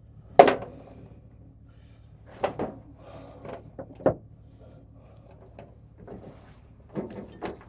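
Handling noises while securing a pickup camper top: a sharp knock about half a second in, then scattered softer clunks and knocks.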